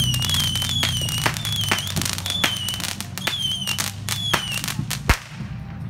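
Fireworks going off: dense crackling pops with a short falling whistle repeating about twice a second. A single louder bang comes about five seconds in.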